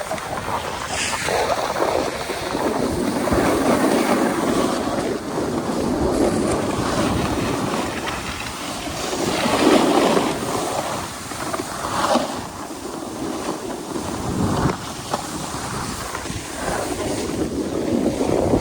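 Wind rushing over the microphone on a downhill snowboard run, with the board scraping across the snow. It swells and fades in surges, with a few short, sharper scrapes.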